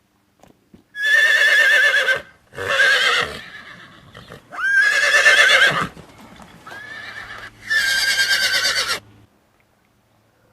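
Horse whinnying: four loud whinnies with a quavering pitch, about a second each, and a softer call between the third and fourth.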